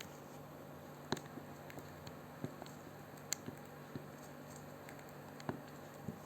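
Irregular light clicks and taps from a pet parrot, most likely its beak working on food, with the sharpest click just after a second in.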